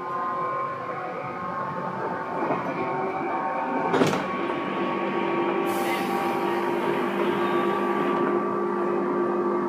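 Tobu 9000 series commuter train running, heard from inside the car: a steady hum with level whining tones, a single sharp knock about four seconds in, and a hiss over the middle of the second half.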